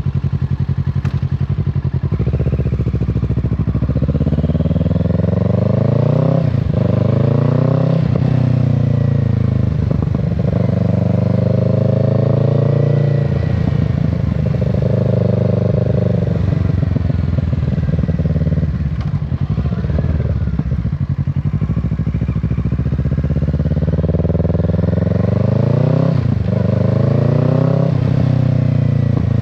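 Kawasaki Z650's parallel-twin engine under way, its pitch climbing as it accelerates and dropping at each gear change, several times over, with stretches of steadier running in between.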